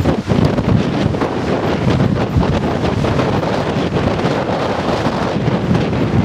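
Strong wind buffeting the microphone: a loud, continuous rumbling roar.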